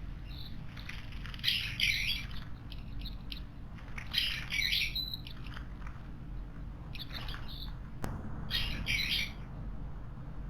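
Wild birds calling at a garden water basin: four short bursts of calls, one every two to three seconds, with a single sharp click about eight seconds in.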